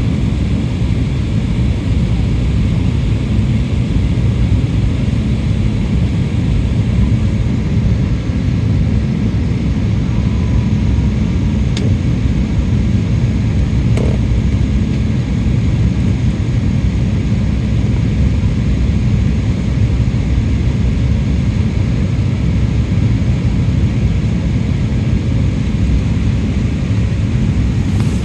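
Steady low rumble inside a jet airliner's cabin in flight: engine and airflow noise, with a couple of faint clicks in the middle.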